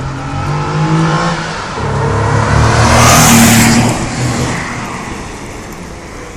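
1997 Nissan Maxima's 3.0-litre V6 accelerating hard past the camera: the engine note climbs, drops once about two seconds in as it shifts up, then climbs again. It is loudest as the car goes by about three seconds in, then fades as it pulls away.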